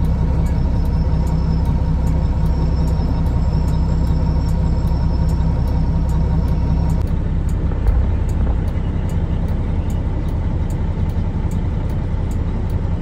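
Truck engine running with a steady low rumble. The sound shifts abruptly about seven seconds in, and there is a single knock shortly after.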